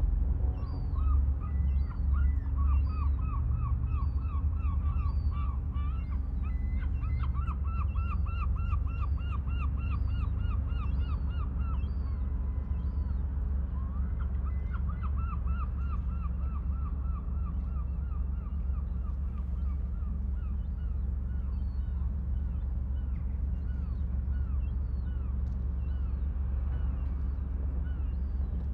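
Birds calling in long rapid runs of short harsh notes, about three or four a second, with brief pauses between runs. Underneath is a steady low rumble.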